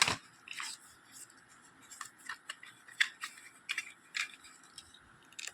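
Plastic audio cassettes and their cases being handled: a string of irregular short clicks and scrapes as the tapes are picked up and turned over.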